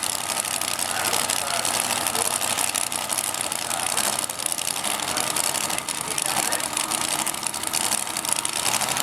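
Steady drag-strip background: car engines idling, with voices in the background.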